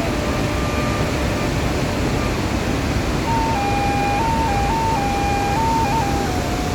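Steady roar of the Iguaçu waterfalls. From about three seconds in, a thin melodic line of held notes steps up and down in pitch above the roar.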